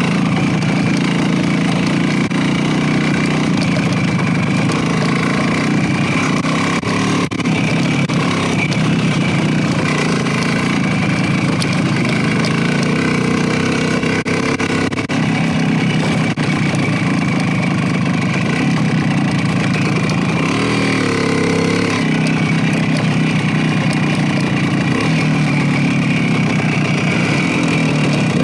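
Motorcycle engine running steadily under way, with a short shift in engine pitch about twenty seconds in.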